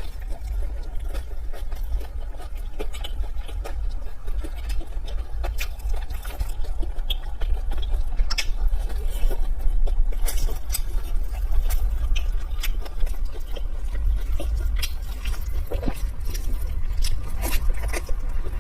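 Eating sounds: irregular wet smacking, chewing and slurping clicks over a steady low hum.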